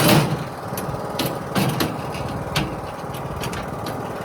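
Small engine idling steadily, with a few sharp knocks and clatters in the first three seconds, typical of a dump cart's metal gate and branches being handled.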